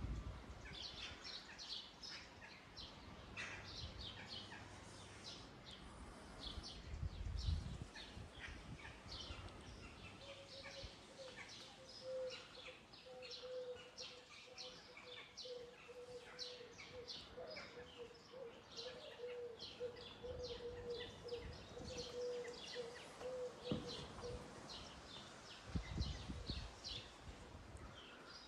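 Small birds chirping in quick, repeated high notes. A faint steady hum at one pitch sounds underneath for about ten seconds in the middle, and a couple of low thumps come a few seconds in and near the end.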